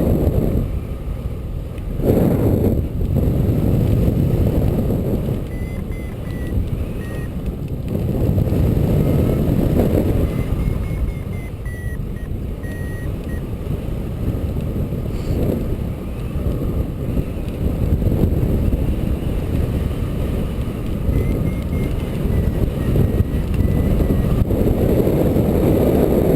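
Steady low rushing of wind and vehicle noise during a hang glider truck tow, swelling and easing every few seconds. A faint, high, wavering tone comes and goes several times.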